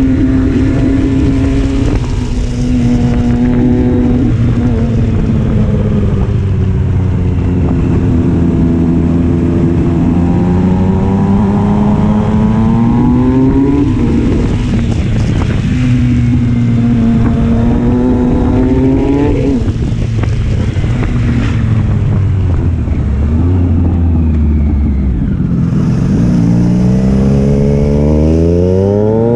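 Triumph Street Triple's inline-three engine and exhaust under way, accelerating through the gears. Its pitch climbs and then drops at each upshift, twice in the middle, and it revs up hard again near the end, over steady wind rush.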